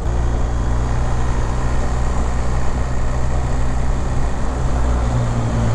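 BMW R 1250 GS Adventure's boxer-twin engine running at a steady cruise, with wind noise over the microphone.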